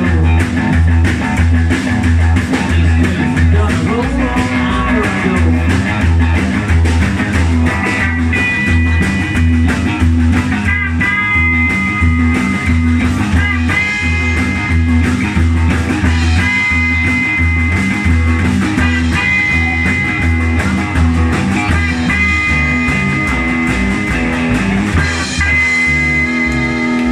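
Guitar-led rock music with a steady, pulsing bass line; from about eight seconds in, a lead line plays repeated held high notes.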